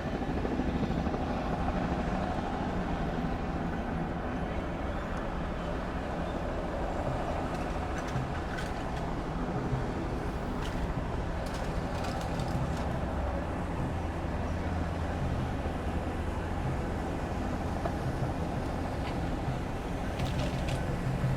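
An engine running steadily with a low, even drone, and a few faint clicks over it.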